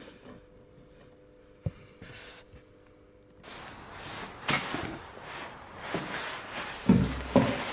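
Low steady hum with one click, then about three and a half seconds in a stick-welding arc is struck and runs with a steady crackling hiss and sharp pops. Two heavy knocks come near the end.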